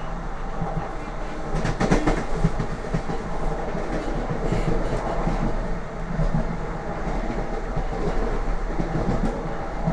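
Lastochka (Siemens Desiro RUS) electric multiple unit running at speed: a steady rumble of the wheels on the rails, with the clickety-clack of the wheels over rail joints. A burst of sharp clicks comes about two seconds in.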